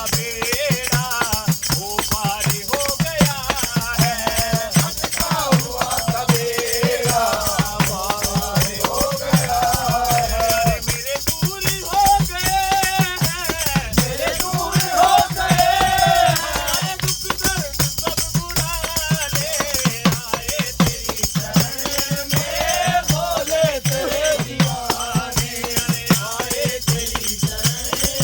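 A group singing a Hindi devotional bhajan in kirtan style, over a fast, steady percussion beat.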